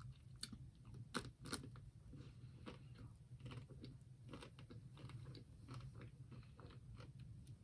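Faint chewing and biting of a Magnum double caramel ice cream bar, with small crunching clicks as the chocolate shell cracks, the sharpest two just over a second in.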